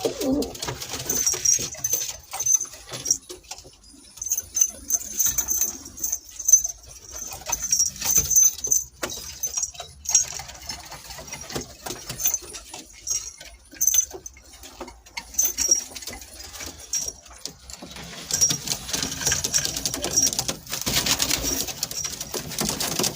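Domestic pigeons cooing, with lots of short, high chirps from other small birds. The cooing is heard near the start and again in the last few seconds.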